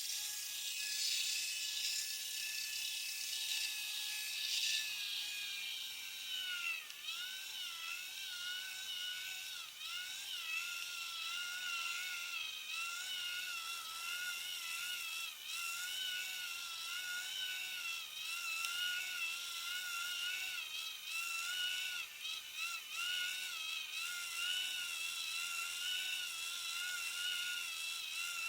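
Small 6 V DC geared motor drill with a 3 mm hex-shank bit, running with a high steady whine while drilling into lauan wood. About six seconds in the whine drops in pitch and starts to waver unevenly, as it does when the motor slows under load.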